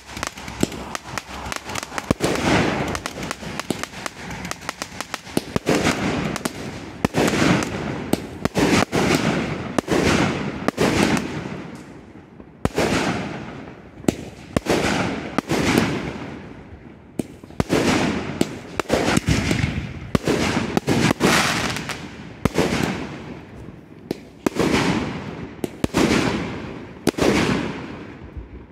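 Aerial fireworks launching and bursting in rapid succession. Sharp bangs come about once a second, each one trailing off as it fades.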